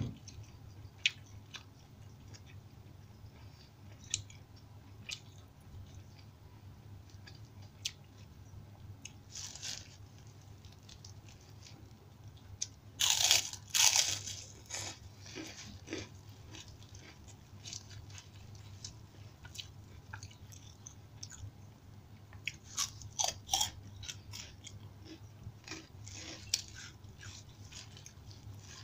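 Close-miked eating by mouth: wet clicks and chewing throughout, with loud crunching bites about 13 seconds in and again around 23 seconds in.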